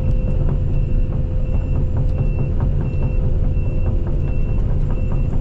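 Case CX220E excavator's diesel engine running steadily with a hydraulic whine as the machine carries a salvaged barn beam, and a faint beep repeating about twice a second.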